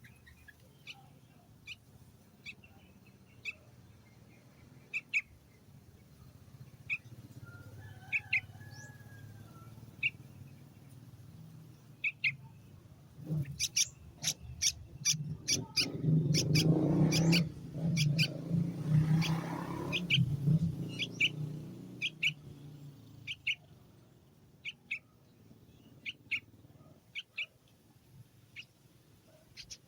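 Small birds chirping in short, sharp notes, one every second or so, quickening into a rapid run of chirps about halfway through over a low rustling noise, then thinning out again.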